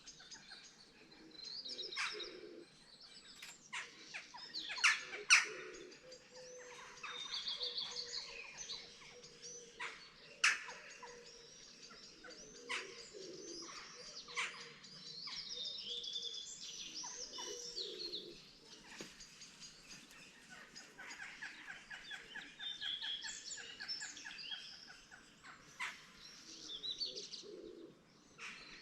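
Dawn chorus of several small songbirds singing and calling, with overlapping chirps, warbles and sharp call notes. A rapid trill comes about three-quarters of the way through.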